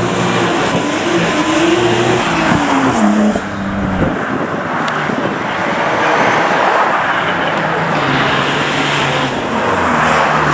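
Modified cars' engines revving and accelerating away one after another, the engine note rising and falling several times over a constant rush of exhaust and road noise.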